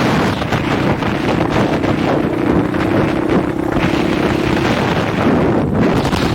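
Husqvarna 501 dirt bike's single-cylinder four-stroke engine running at a steady pitch while riding, buried under heavy wind buffeting on an unprotected microphone. The engine note changes about three-quarters of the way through.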